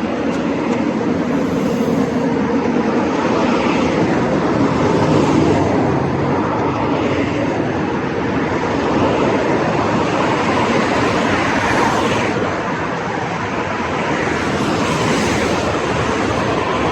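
Scott Scale Gravel 10 gravel bike's tyres rolling along the road: a steady rushing noise that swells and eases every few seconds.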